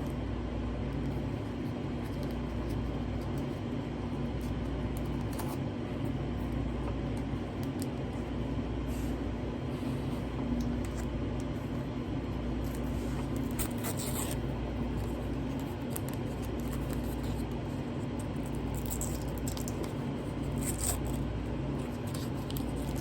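A steady low mechanical hum with a rumble that swells and fades about every two seconds, and a few faint clicks in the second half.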